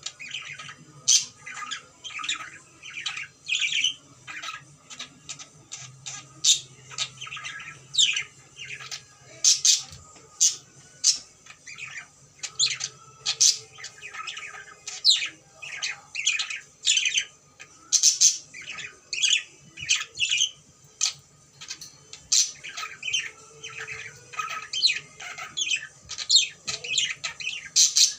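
Pet cockatiel calling in a rapid run of short, shrill calls, a few a second.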